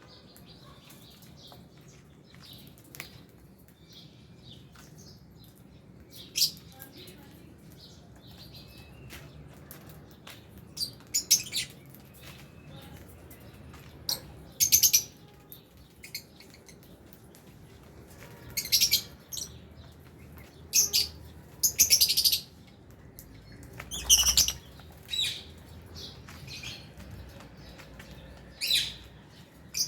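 A flock of lovebirds chirping, with loud shrill calls standing out every few seconds over softer background chatter.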